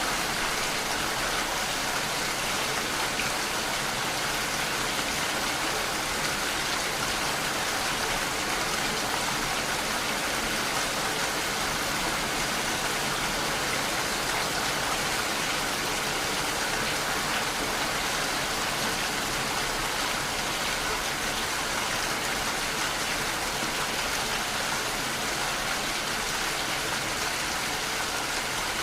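Steady rainfall: an even hiss of rain falling on surfaces, with no change in strength.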